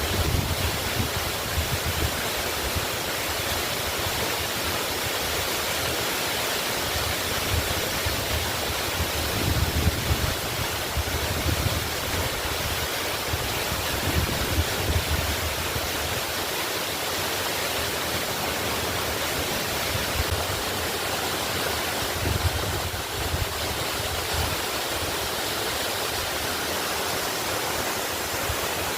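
Waterfall rushing in a steady, even roar of falling water, with a few deeper surges now and then.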